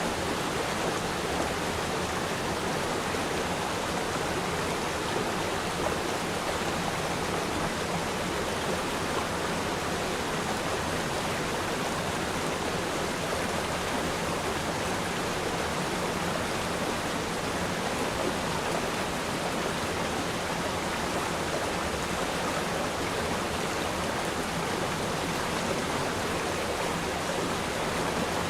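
Steady rushing and babbling of a river stream flowing over rocks, with no breaks or distinct events.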